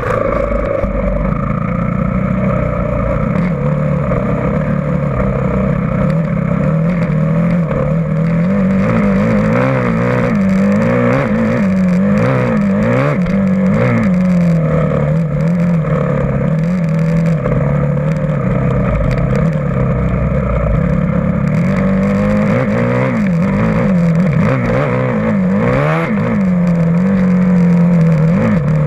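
Motocross bike engine running hard and revving, its pitch swinging up and down again and again, with the quickest swings from about nine seconds in and again past twenty seconds.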